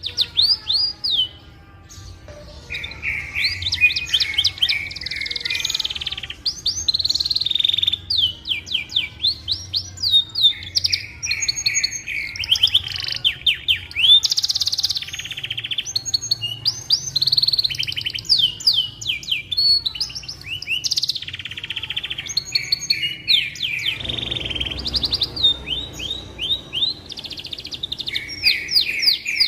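Domestic canary singing a long, nearly unbroken song of fast, high-pitched trills and rolling phrases, after a brief lull in the first two seconds.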